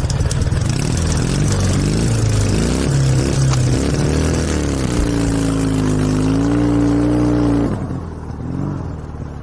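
Dnepr 16 sidecar motorcycle's flat-twin engine running under throttle, its note rising and falling, then holding a steady higher pitch for a few seconds before easing back and getting quieter near the end.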